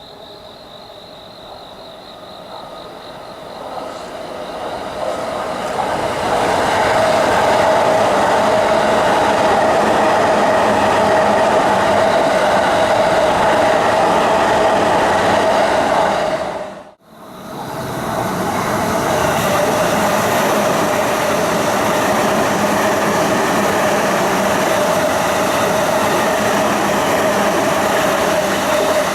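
JR East E257 series electric multiple unit running past. Its sound builds over the first few seconds to a steady loud rumble of wheels on rail with a humming tone. The sound drops out abruptly for about a second roughly two-thirds of the way through, then carries on.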